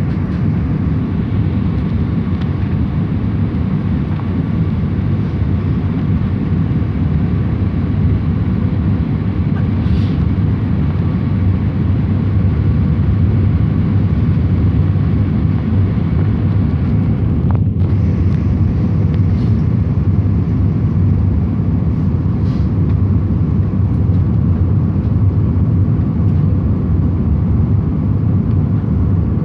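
Steady cabin noise of an airliner in flight: the constant low rumble of the engines and the air rushing past the fuselage, heard from a window seat.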